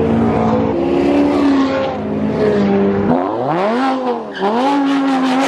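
Supercar engine revving hard through the gears: its pitch steps down for the first few seconds, then rises sharply, dips about a second later and climbs again.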